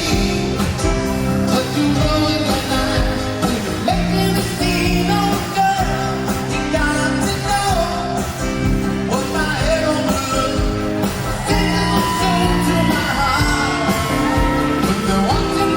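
A live band playing smooth 70s–80s soft rock, with a lead vocalist singing over sustained chords and a steady groove.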